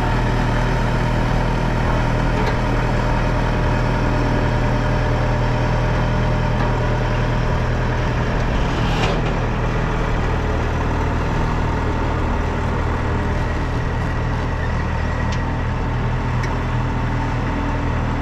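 An engine idling steadily at an even speed, with a brief click about nine seconds in.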